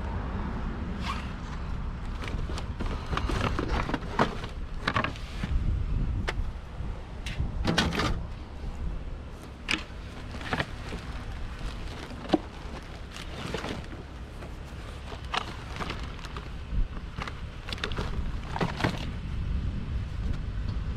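Household junk being rummaged through and handled: irregular knocks, clanks and short scrapes of items, some of them metal pans and aluminium pieces, knocked and shifted against each other, over a steady low rumble.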